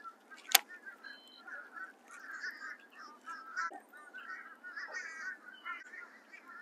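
Birds calling, a steady run of short calls one after another, with a single sharp click about half a second in.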